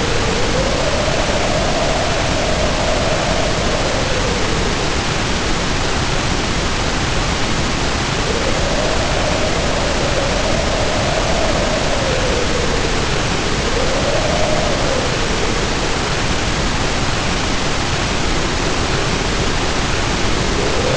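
Storm wind howling over steady heavy rain: a loud, even hiss of rain with a wind howl that rises and falls in pitch in slow swells several seconds long, one of them short about two-thirds of the way through.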